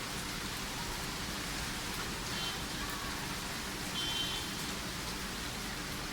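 Steady rain pouring down, an even hiss of drops hitting surfaces, with two short high chirps about two and four seconds in.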